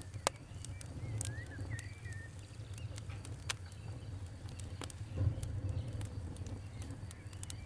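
Fire crackling, with irregular sharp pops and snaps over a low rumble. A bird chirps briefly a second or two in.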